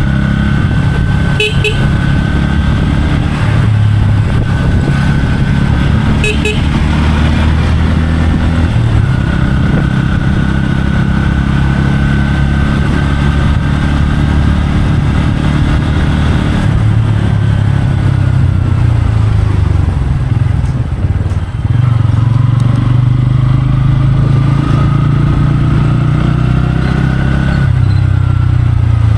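Motorcycle engine running steadily while riding, its pitch shifting up and down with throttle and gear changes. Two short horn toots sound, about a second and a half in and again about six seconds in.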